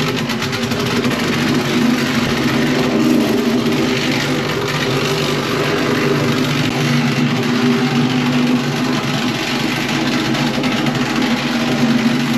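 Engine-driven compactor running steadily with a fast vibration, compacting the ground as the base for a concrete slab.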